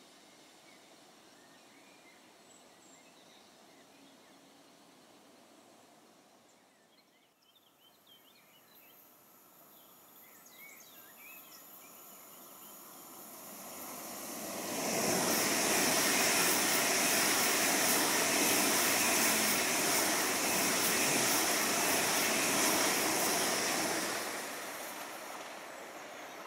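A train passing through at speed. Its rushing noise builds from about eight seconds in, stays loud for about ten seconds, then fades near the end.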